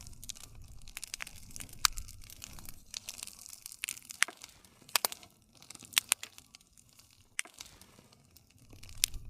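Wood fire crackling, with irregular sharp pops and snaps over a soft hiss and a low rumble of burning.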